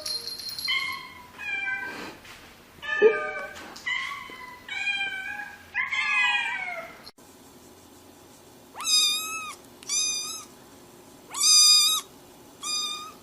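Domestic cat meowing repeatedly. First comes a string of meows that each fall in pitch; then, after an abrupt change about seven seconds in, four shorter meows follow at a steadier pitch, about one a second.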